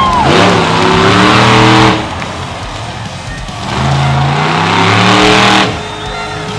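Monster truck engine revving hard twice, each rev about two seconds long with its pitch climbing, then dropping back between and after.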